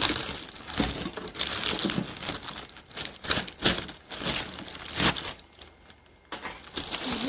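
Plastic packaging crinkling and rustling in uneven bursts as it is handled and pulled off, with a short lull near the end.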